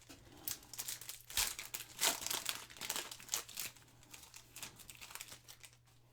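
A foil trading-card pack wrapper crinkling as it is handled and torn open, a dense run of irregular crackles for about five seconds that dies away near the end.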